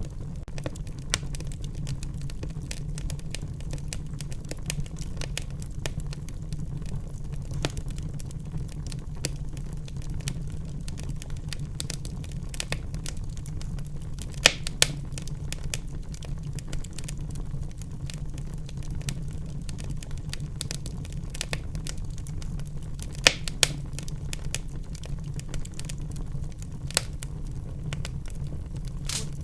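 Wood fire burning in a fireplace: a steady low rumble of flames with frequent crackles and sharp pops, the loudest a few pops about halfway through and again a few seconds later.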